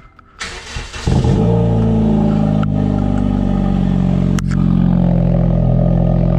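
2010 Honda Civic engine cold-started: the starter cranks briefly, the engine catches about a second in, then runs at a steady fast cold idle. A sharp click is heard about four seconds in.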